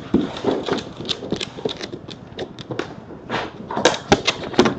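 Irregular light clicks and taps, several a second, over faint background noise.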